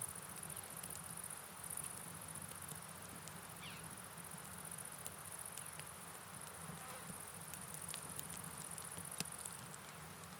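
Night rain ambience: soft, steady rain patter with scattered sharp drip clicks, over a low rush of river water and a continuous high chirring of insects.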